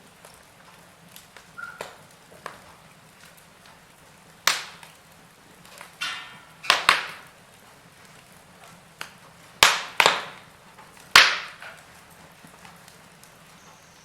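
Wood fire in a fireplace crackling, with a faint steady hiss and scattered sharp pops, the loudest half a dozen coming in the second half.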